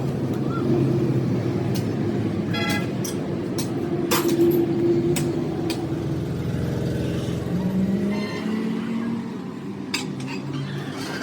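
Motor vehicles running, with a short horn toot about two and a half seconds in and scattered sharp clicks.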